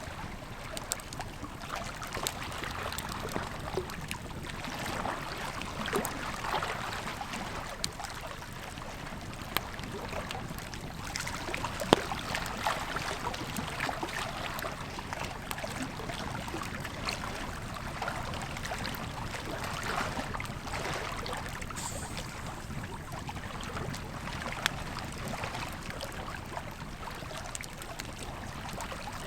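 Campfire crackling with scattered sharp pops, one louder pop about twelve seconds in, over the steady rush of a flowing river.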